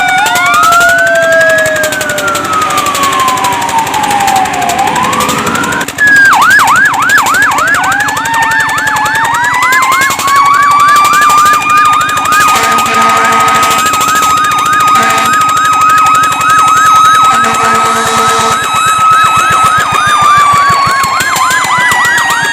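Emergency vehicle sirens: overlapping slow rising and falling wails, switching abruptly about six seconds in to a fast repeating yelp over a steadier tone. A lower blare cuts in twice, briefly.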